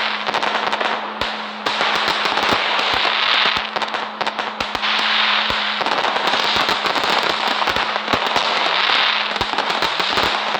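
Fireworks going off continuously: a dense hissing crackle with many sharp pops.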